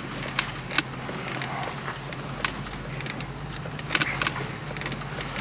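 A 2006 Lincoln Town Car's 4.6-litre V8 idling steadily, heard from inside the cabin, with a few light clicks and taps over it.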